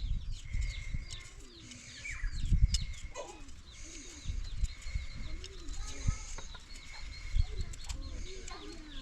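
Several birds chirping and calling, with low cooing calls now and then, over a low rumble.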